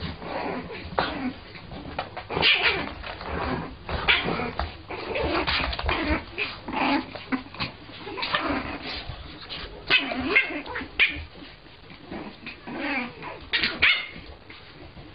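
Puppy barking repeatedly in short barks, on and off, at a cat it is trying to chase away.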